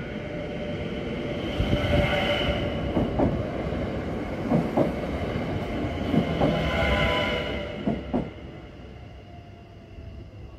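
NS electric passenger train running past over a level crossing: the noise swells about a second and a half in and dies away after about eight seconds. Its wheels click over the rails, often in pairs, several times as the carriages pass.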